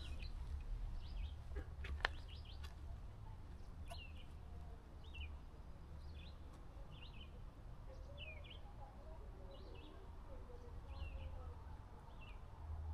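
A songbird calling short chirps about once a second, over a steady low rumble, with one sharp click about two seconds in.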